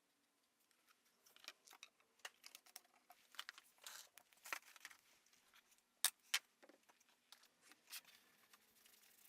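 Faint, irregular handling sounds: scattered light clicks, taps and rustles, with two sharper clicks close together just past the middle.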